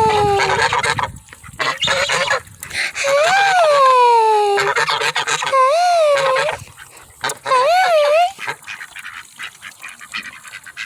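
Young domestic goose calling: four drawn-out calls, each rising then falling in pitch, the later ones shorter.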